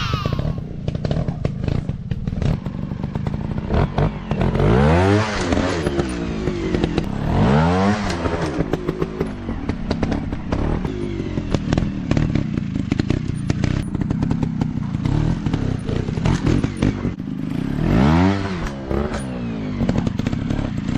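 Small dirt-bike engines revving up and falling back several times, with clattering knocks and scrapes throughout.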